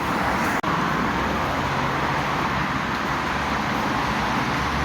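Steady traffic noise from a busy multi-lane highway, vehicles passing continuously. The sound drops out for an instant about half a second in.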